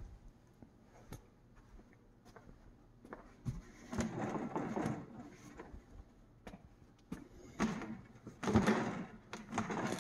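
Knocks, clatter and scraping as a PVC beehive stand with a hive box on it is shaken and pushed by hand to test how sturdy it is, in two longer bouts after scattered clicks.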